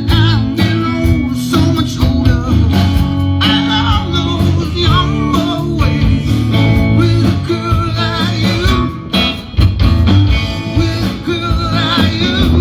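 Live band music: guitars over bass and drums at a steady beat, with a wavering lead line above.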